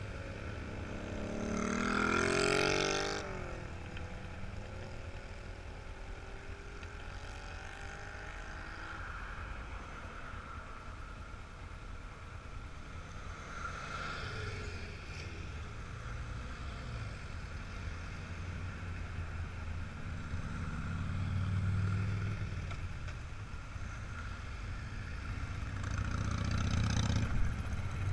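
Classic vehicles' engines passing one after another, each swelling and fading as it goes by over a steady background engine hum. The loudest, about two seconds in, rises in pitch as it accelerates past; a deeper, lower engine passes about three-quarters of the way through.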